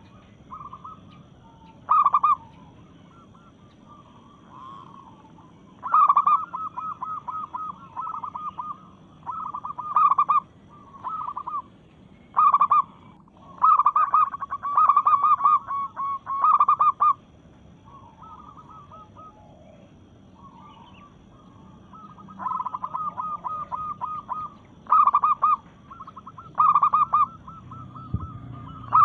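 Zebra dove (perkutut) hen calling: short bouts of rapid staccato coos, one after another with brief pauses, and softer notes in between.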